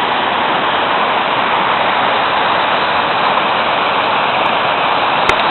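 Steady rush of water from a small woodland waterfall and the shallow creek below it, with a small click near the end.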